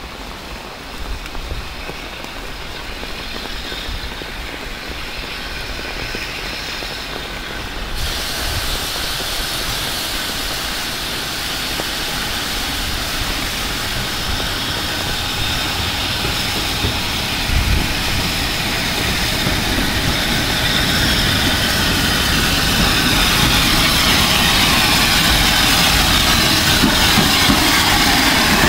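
Steam train on a heritage line approaching and running closer, its sound growing steadily louder throughout, with the clatter of wheels on the rails.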